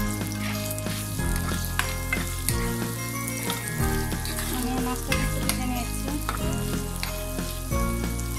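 Marinated prawns sizzling and crackling as they are lightly fried in hot oil and ghee in a non-stick wok, a wooden spatula stirring and tapping against the pan. Background music with chords changing about every second plays underneath.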